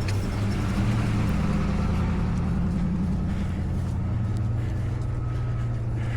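Motor vehicle traffic going slowly past on a snowy street, a steady low engine hum whose pitch drops about three seconds in.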